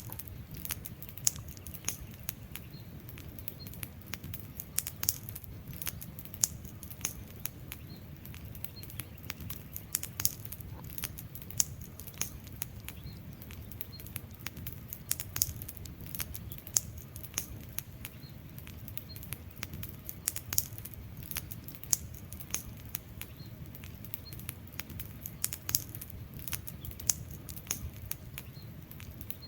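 Wood fire crackling, with frequent sharp irregular pops and snaps over a steady low rush of the flames.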